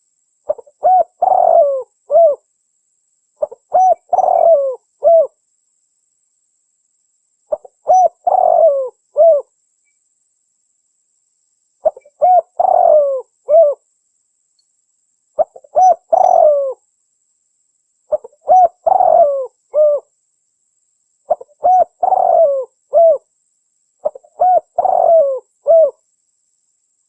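Spotted dove (tekukur) calling: eight cooing phrases of several notes each, repeating every three to four seconds with silence between. It is a recorded call played as a lure to draw wild spotted doves in for trapping.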